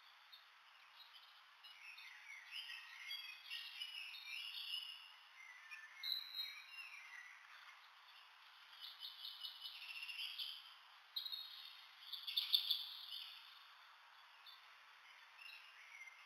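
Birds chirping faintly, with short high calls and a few quick trills.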